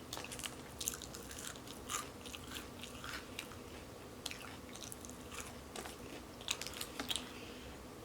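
Close-up crunching and chewing of a person eating fried onion rings: many short, irregular crisp crunches with wet chewing between them.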